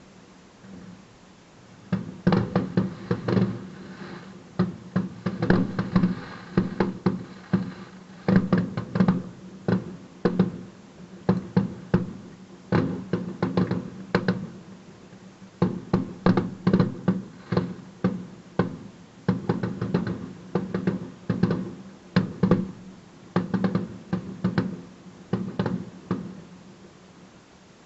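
Fireworks exploding in a display: rapid, irregular bangs and crackles in clusters, with short pauses between salvos, dying away near the end.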